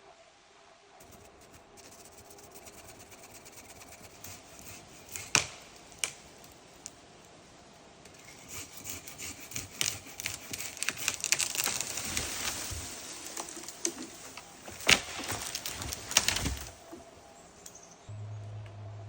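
Saw cutting through Pacific yew wood: rapid rasping strokes from about eight seconds in until about seventeen, with a few sharp knocks of wood before and during the cut.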